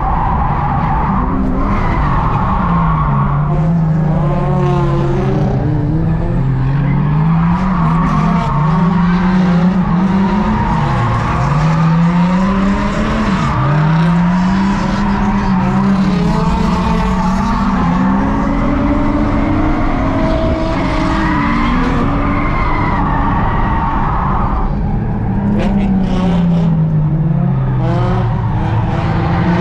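Nissan Laurel's RB25DET turbocharged straight-six heard from inside the cabin during a drift run, the revs rising and falling every couple of seconds, with tyres squealing.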